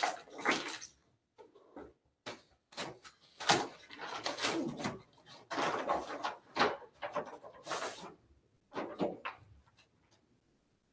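Paper rustling and crinkling in short, irregular bursts as a bid envelope is opened and its documents are pulled out and leafed through. It stops about a second and a half before the end.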